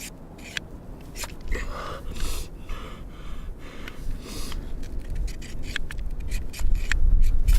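A fire steel scraped again and again with a knife blade to throw sparks: scattered strokes at first, then quick repeated strikes in the last couple of seconds. Low wind rumble on the microphone comes in near the end.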